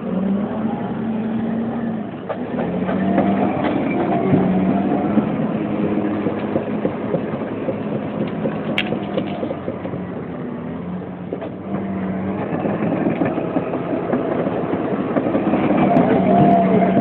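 Engine of machinery at a forest-clearing site running steadily, its pitch stepping up and down every second or two as it works.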